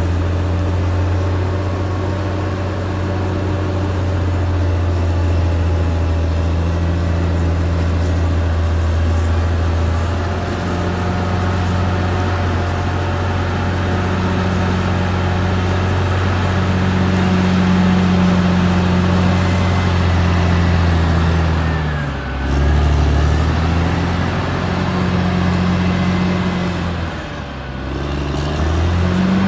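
Caterpillar D6R XL bulldozer's diesel engine running steadily at working speed. Twice, about two-thirds of the way through and again near the end, its pitch sags briefly and comes back up, as the engine is pulled down under load and recovers.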